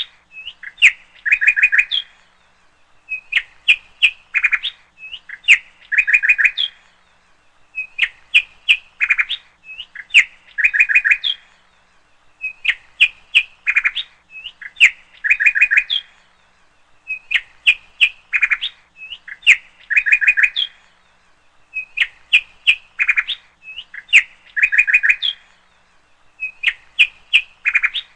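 Bird chirping and trilling in a short looped recording: the same burst of chirps repeats about every five seconds.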